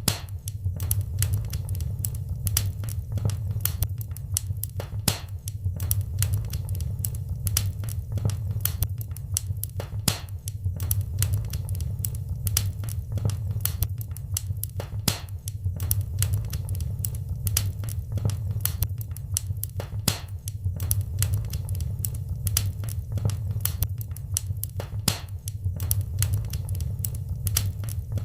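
Fire in a fireplace crackling: frequent, irregular sharp snaps and pops over a steady low rumble.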